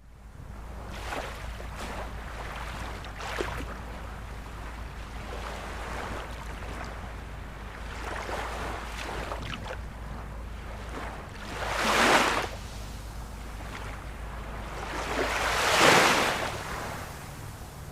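Ocean waves washing on a shore over a steady low rumble, with two louder waves breaking about two-thirds of the way through and again near the end.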